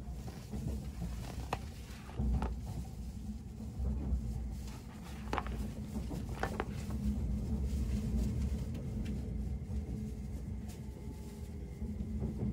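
Low, steady rumble of the SPACIA X electric train running, heard inside the passenger car, with a few short paper rustles from a brochure being handled and leafed through.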